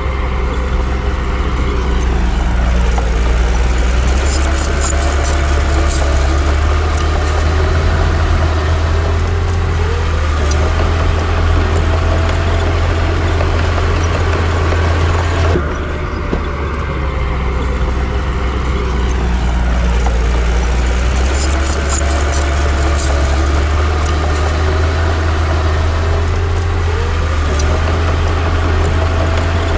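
Komatsu D60 bulldozer's diesel engine running steadily and loud, its pitch sagging and climbing back twice, with scattered light clinks.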